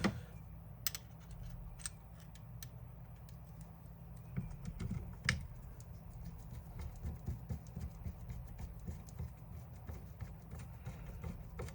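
Light clicks and taps of a cordless drill's parts being handled and fitted together during reassembly: a few sharper clicks in the first five seconds, then a run of fainter ticks, over a low steady hum.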